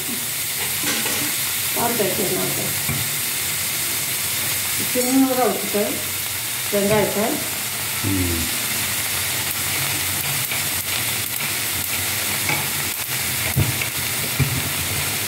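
Chopped okra sizzling steadily as it sautés in a kadai, with two sharp knocks near the end.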